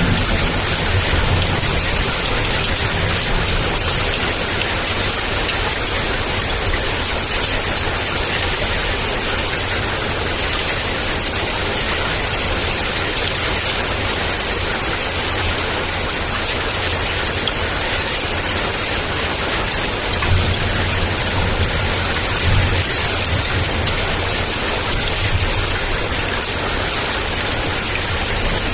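Heavy rain pouring steadily, a dense even hiss of drops, with a low rumble of distant thunder underneath that swells briefly about two-thirds of the way through.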